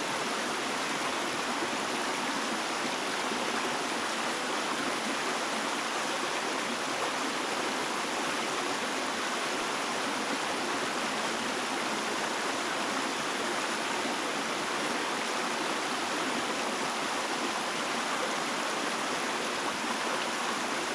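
Stream water flowing steadily, an even rushing with no break or change.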